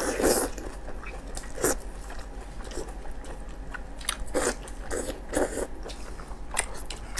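Close-miked biting and chewing of sheep tripe coated in chili sauce: short, irregular bursts of wet mouth noise.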